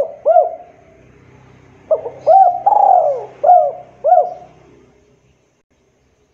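Spotted dove cooing: two notes at the start, then after a short pause a full phrase of about five arched coo notes that stops about two seconds before the end.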